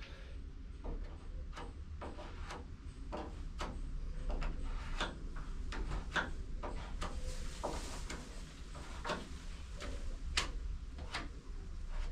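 Filler spreader scraping and tapping two-part body filler onto a car body panel in short irregular strokes, about one every second or so, over a steady low hum.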